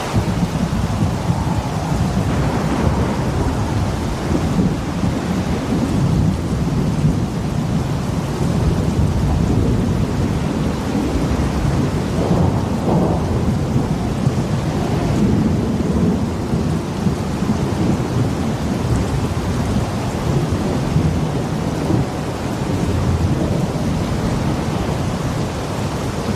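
Thunderstorm: rain falling with a continuous low, rolling rumble of thunder.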